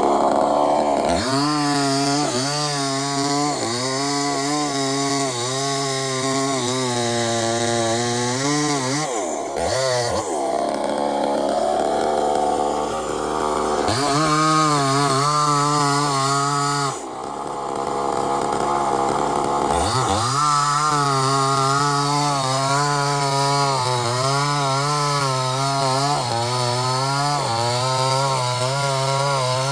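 Two-stroke chainsaw cutting wood. The engine runs lower and labouring in the cut, its pitch wavering. It breaks out to higher free revs about ten seconds in and again for a few seconds past the middle, then bites back into the cut.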